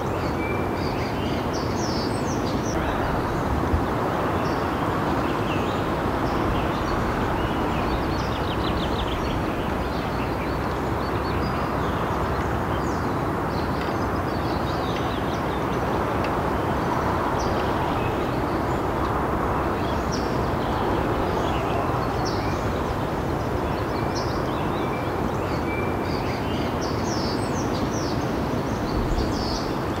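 Wild birds calling and singing in short, scattered chirps and trills over a steady low background rumble.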